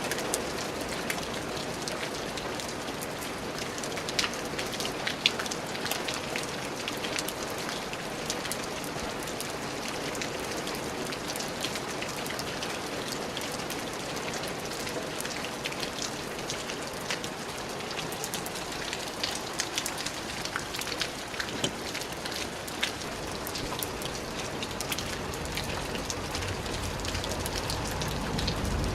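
Rain falling steadily: an even hiss dotted with many sharp clicks of drops striking a surface. A low rumble swells near the end.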